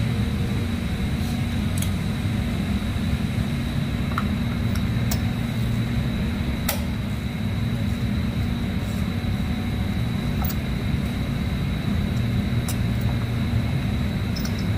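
Steady low machine hum with a thin high whine over it, and a few faint sharp clicks scattered through.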